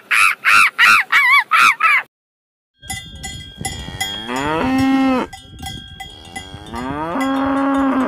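A monkey gives a quick series of about six high, arching calls, stopping about two seconds in. After a short pause a cow moos twice, each moo long, sliding down in pitch and then holding low, with faint steady high ringing tones behind.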